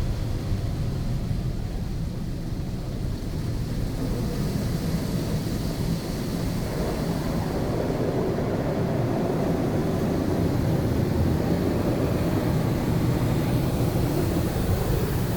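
Touchless automatic car wash spraying water over a car, heard from inside the cabin as a steady rushing noise over a low rumble; the spray grows louder about seven seconds in.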